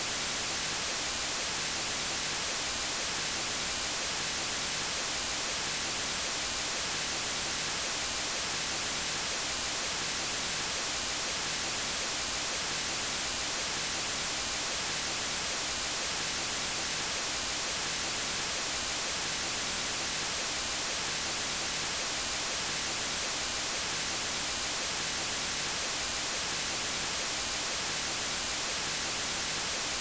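Steady white noise: an even, unbroken hiss across all pitches, brightest in the highs.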